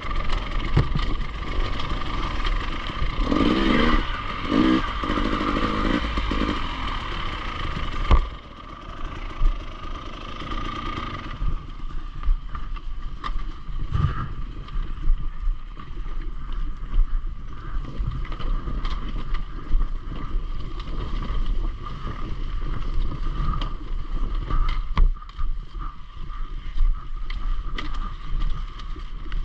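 Enduro motorcycle running steadily, with clattering and knocks over the engine note.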